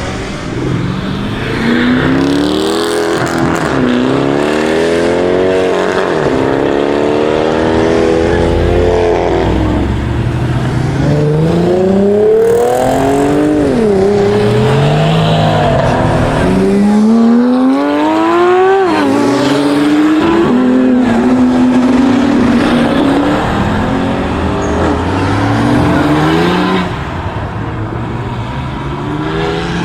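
Performance car engines accelerating hard, one after another, the engine note climbing and then dropping sharply at each upshift, with several overlapping engines.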